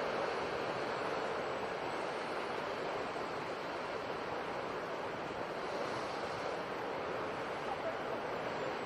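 Sea surf washing in: a steady rushing wash of waves, easing slightly midway and building again near the end.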